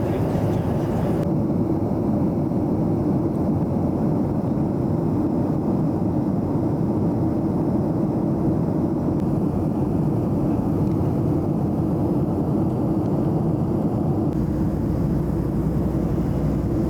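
Steady, deep drone inside the cabin of a Boeing 737-700 in flight: the noise of the CFM56 jet engines and the airflow over the fuselage. The tone shifts slightly about a second in and again near the end.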